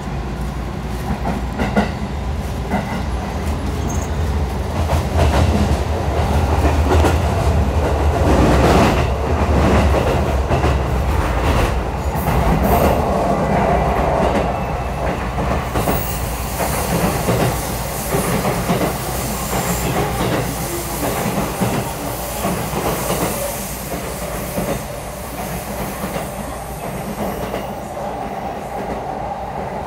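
Electric train running at speed, heard from inside the carriage: a steady rumble of wheels on rail with clicks over the rail joints, loudest in the first half.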